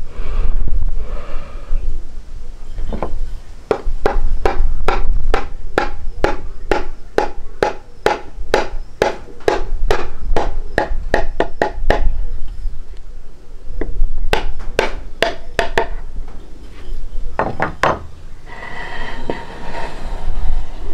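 A rapid run of evenly spaced sharp knocks, about two and a half a second, over a steady low rumble. The knocks stop about two-thirds of the way through and return in two short bursts near the end.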